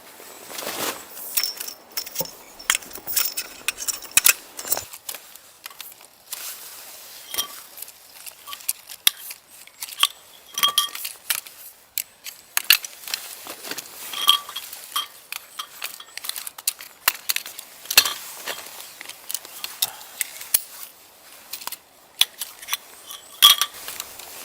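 Small metal objects clinking and rattling together in many irregular, quick strikes, some ringing briefly.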